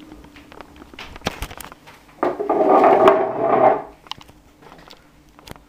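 Bosch dishwasher starting its quick wash cycle: a few light clicks, then about two seconds in a loud rush of running machine and water noise that lasts under two seconds and stops, over a faint steady hum.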